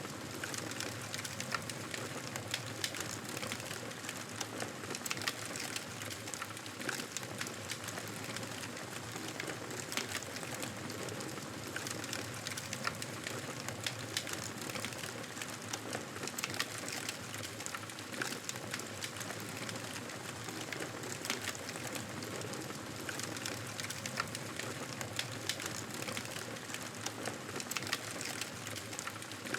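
Wood fire crackling: a steady hiss with many small, irregular pops and snaps throughout.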